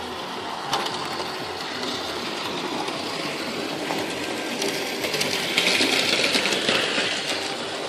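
Tri-ang OO-gauge model train running on the track: a steady electric-motor whir with faint clicking of wheels on the rails, louder and brighter for a couple of seconds from about five seconds in.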